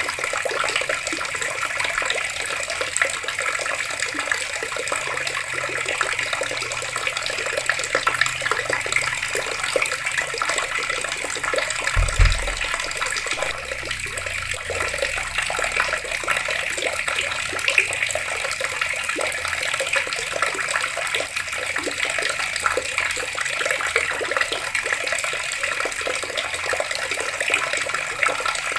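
Water running from taps and splashing steadily, with a brief low thump about twelve seconds in.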